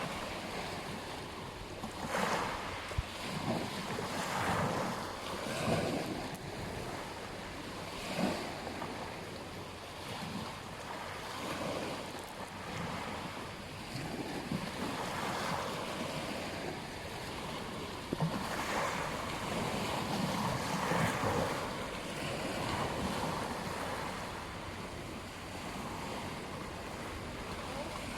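Ocean waves breaking on a beach: a steady wash of surf that swells and falls irregularly, with wind on the microphone.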